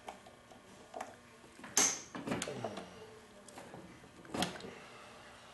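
Several separate knocks and clicks from hand tools working on the blower's parts, the loudest about two seconds in, with a few more after it and one more past four seconds.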